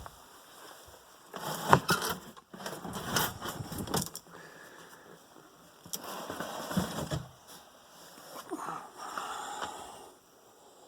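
Knocks, scrapes and rattles of a motorhome's center console being worked loose and pulled out of the dash, in several separate bouts with sharp clunks among them.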